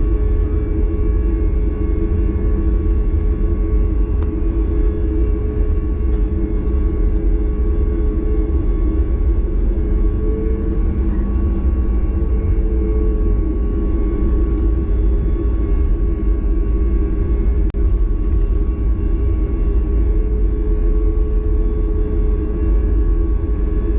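Steady cabin drone of a Boeing 737 MAX 8 heard from inside the cabin: a deep rumble of its CFM LEAP-1B engines and the airflow, with several steady hums held at one pitch throughout.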